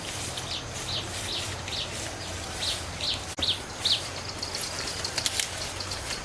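A bird calling: a run of short, high chirps, about two a second, through the first four seconds, then a few sharp clicks near the end.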